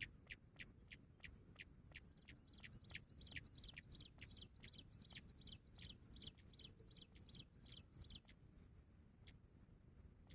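Bush quail calling faintly: a long series of short, falling whistled notes, about three a second, that quicken and crowd together midway and stop about eight seconds in.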